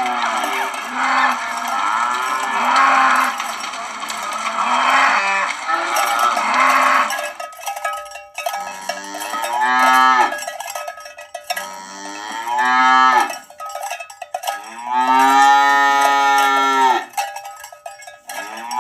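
A herd of cattle mooing: many overlapping moos for about the first seven seconds, then three separate long moos, each a second or two.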